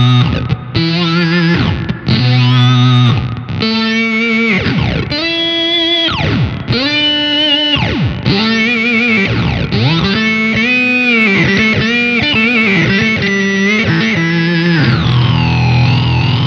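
Electric guitar played through an EarthQuaker Devices Data Corrupter PLL synth pedal, giving a run of synth-like notes, each about a second long, that swoop in and out of pitch with warbling upper harmonics. Near the end it settles into one sustained, buzzy held tone.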